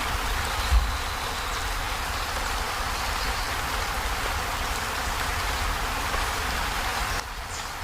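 Heavy rain falling on a corrugated zinc roof as a steady hiss over a low rumble, with one brief thump about a second in. The sound drops in level near the end.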